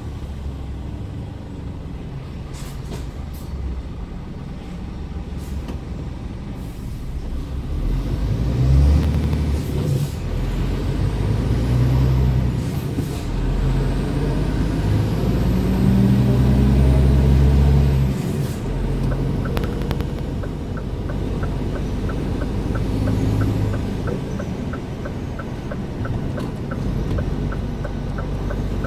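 Scania R410 truck's 13-litre six-cylinder diesel running as the truck drives, swelling louder and falling back several times through the middle as it pulls and changes gear. In the last third a light regular ticking comes in, about two ticks a second.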